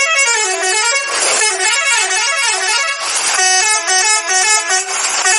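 A loud multi-tone musical vehicle horn playing a repeating melody, with a rushing hiss swelling about every two seconds.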